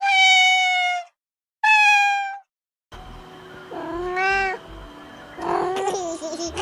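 Cat meowing: two long, clean meows in a row, then after a short silence further shorter meows against a background hiss, about four seconds in, around five and a half seconds and again at the end.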